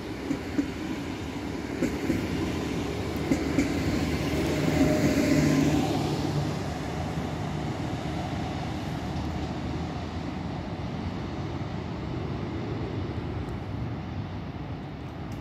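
Electric passenger train passing close by, its wheels giving a few sharp clicks over rail joints. The sound is loudest about five seconds in, then fades steadily as the train pulls away.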